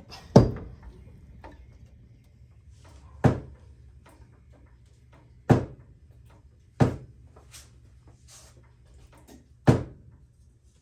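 Pittsburgh 3-ton low-profile floor jack being pumped to lift a truck: five sharp clunks, roughly two to three seconds apart, one with each stroke of the handle.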